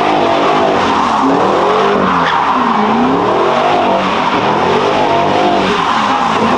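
A car drifting in circles with its tyres sliding, its engine revving up and down over and over, about every second and a half.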